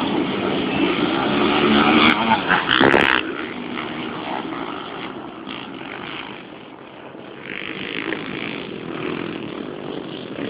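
Racing motorcycle engines, loud for the first three seconds, then dropping to a weaker, more distant drone that swells slightly again later.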